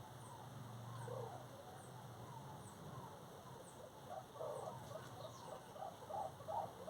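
Birds calling: a run of short, low calls repeating about two to three times a second in the second half, over faint high chirps that repeat regularly throughout.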